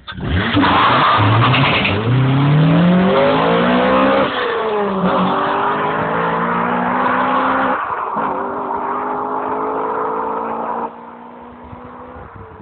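Honda K20A four-cylinder engine of a DC5 Integra Type R under full-throttle acceleration, its pitch climbing in each gear with upshifts about 4 s and 8 s in. The engine is loud until it drops off sharply about 11 s in.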